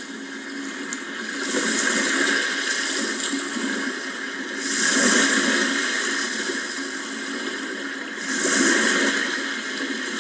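Sea waves washing ashore, the surf swelling and falling back three times, roughly every three to four seconds.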